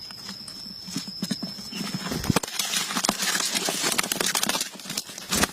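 Irregular knocks and clicks with scraping in between, over a steady high-pitched tone that stops about halfway through.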